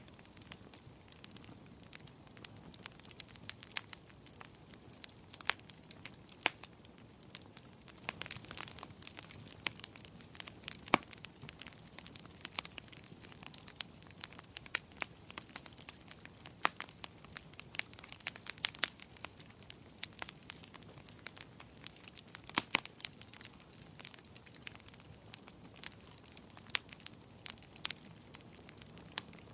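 Wood fire crackling: irregular sharp pops and snaps, several a second, over a soft low rush of burning.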